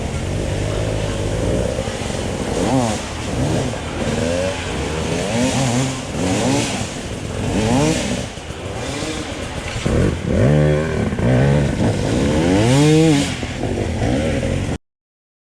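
Dirt bike engine on an enduro trail ride, revving up and falling back again and again as the throttle is worked, over rough mechanical and trail noise. The sound cuts off suddenly near the end.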